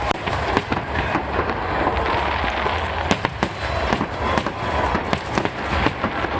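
Aerial fireworks going off in quick succession: a dense, irregular string of sharp bangs and crackles over a continuous din.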